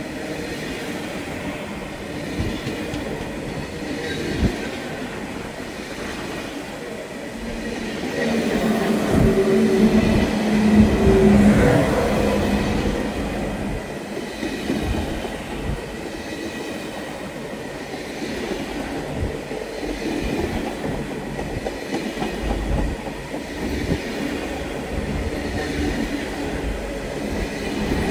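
A train running on the rails: a steady rumble with scattered knocks. A humming tone swells about eight seconds in and fades a few seconds later.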